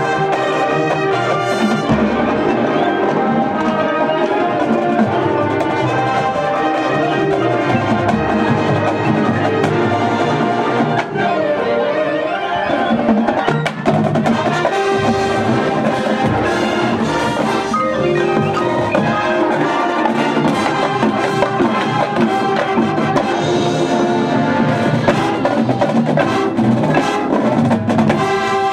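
High school marching band playing live, brass (trumpets and trombones) over drums and percussion, loud and continuous.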